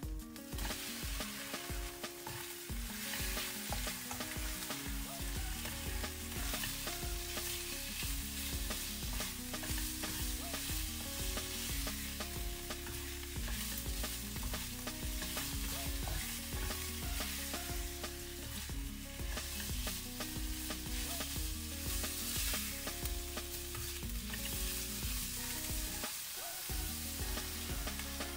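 Chunks of pork sizzling in hot oil in a nonstick wok while a spatula stirs and tosses them, with a continuous frying hiss.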